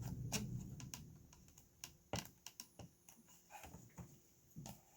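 Faint, irregular clicks and small taps from handling an opened talking toy while touching a wire probe to its circuit board.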